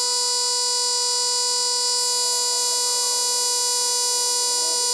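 70mai Air Compressor Lite, a portable 12 V tyre inflator, running steadily as it pumps up a car tyre toward its preset 2.2 bar, with a loud even buzz.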